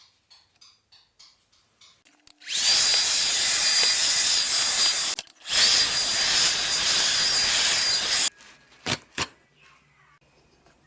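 A carpet washing machine's motor whirs up with a high whine and runs for about three seconds, cuts out for a moment, then runs again for nearly three seconds before stopping. Faint regular ticking comes before it starts and a few sharp clicks after it stops.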